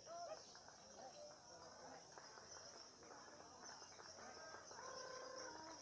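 Faint, overlapping whistles and warbles of songbirds, white-rumped shamas and lovebirds, over a steady high-pitched buzz.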